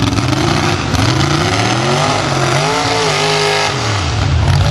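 572 big-block Chevy V8 in a mud truck revving once: it climbs from idle over about two seconds, holds high briefly, then drops back to idle.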